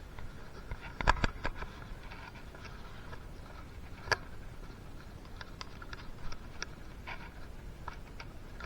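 Small metal parts and hand tools clicking and clinking on the engine and workbench during work on a two-stroke piston. There is a quick cluster of sharp clicks about a second in, a single sharper click around four seconds, and then scattered light ticks.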